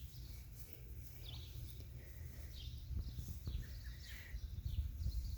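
Quiet outdoor background: an uneven low rumble with a few faint, scattered bird chirps.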